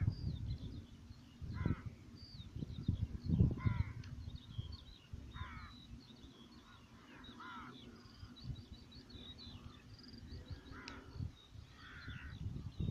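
Birds calling: about six harsh, crow-like calls spaced a second or two apart, over faint high chirping of small birds.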